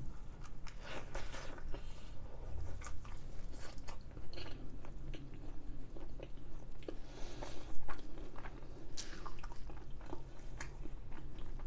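Close-miked eating: a bite into a fried samosa, then chewing it with many small sharp crunches, one louder cluster of them near the end.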